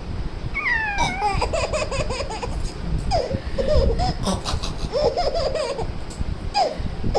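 Baby laughing in bursts of giggles, beginning with a high squeal that falls in pitch about half a second in.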